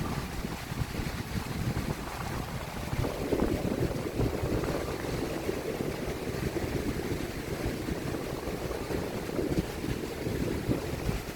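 Strong sea wind buffeting the microphone, a steady rumbling rush, with waves washing on the beach behind it.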